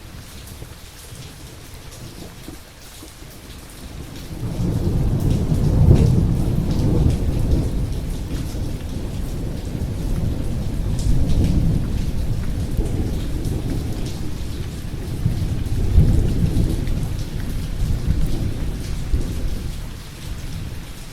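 Steady rain with a long, deep roll of thunder that builds about four seconds in, swells twice and dies away near the end.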